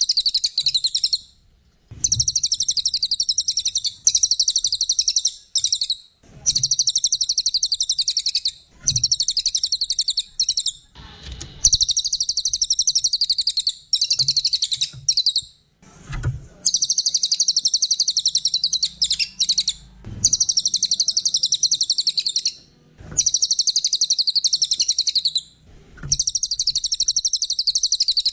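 A cililin, a small songbird, singing energetically: long phrases of very rapid high-pitched twittering notes, each a second or three long, with brief pauses between them, repeated throughout.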